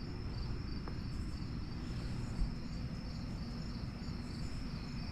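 Crickets chirping in a steady, even rhythm over a low background rumble, with a faint knock about two and a half seconds in.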